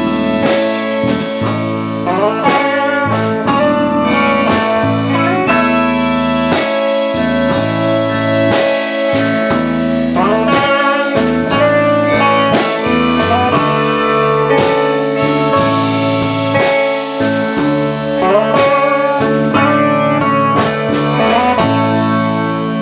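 Live band playing an instrumental passage led by guitar, with bending notes over drums and bass.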